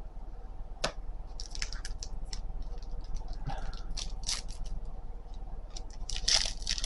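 Trading cards being handled and slid against one another: a run of irregular soft clicks and rustles, busiest near the end.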